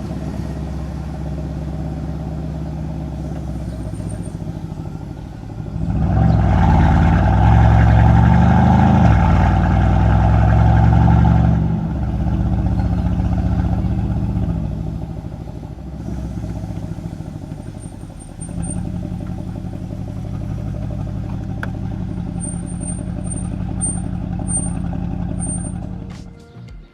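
Mercedes-AMG C63's twin-turbo V8 exhaust while driving: a steady cruising drone, swelling louder under acceleration from about six to twelve seconds in, then easing back to a steady run.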